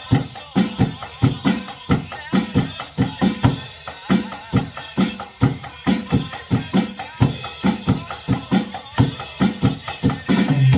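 Drum kit played along with a recorded pop song, keeping a steady beat over the backing track.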